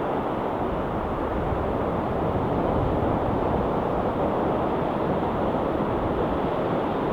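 Ocean waves washing on a rocky shore, a steady even rush of surf with a slight swell in the middle.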